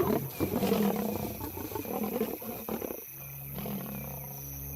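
African lions snarling and growling in a confrontation over a kill, a rough, ragged sound for about three seconds. It then gives way to a steady low drone.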